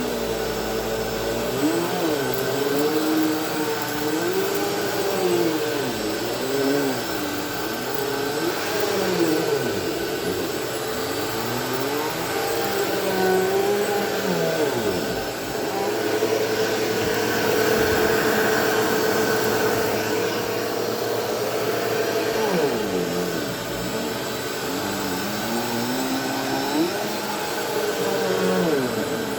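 Bissell PowerForce Helix Turbo Rewind upright vacuum cleaner running continuously, its motor hum wavering up and down in pitch over a steady rushing of air.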